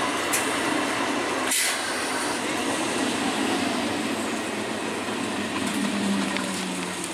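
Electric multiple unit local train passing close by: the steady running noise of its coaches' wheels on the rails, with one sharp clack about a second and a half in. The noise eases slightly as the last coach goes by near the end.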